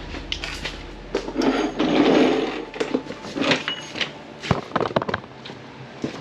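Hand-tool work on a truck's metal step bar brackets: scattered clicks and metal knocks, with a short dense rattling burst about a second and a half in.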